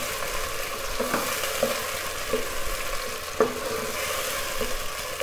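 Sliced onions, ground tomatoes and green chilli paste sizzling steadily in ghee in a pot while a wooden spoon stirs them, with a few soft knocks of the spoon against the pot, the sharpest about three and a half seconds in.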